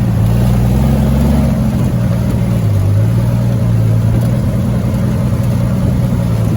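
Off-road 4x4's engine running steadily at low revs, its low pitch dipping slightly a little before the middle.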